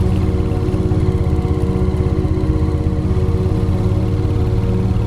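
Royal Enfield Hunter 350's single-cylinder engine running at a steady pitch, with a fast, even pulse of exhaust beats.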